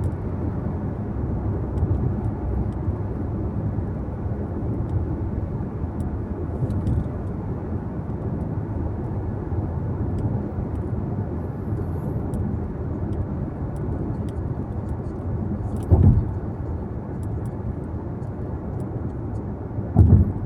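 Car being driven on a road: a steady low rumble of tyre and engine noise, with two short thumps, one about sixteen seconds in and another near the end.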